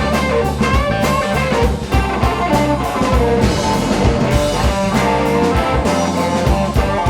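Blues band playing: guitar over drum kit and bass.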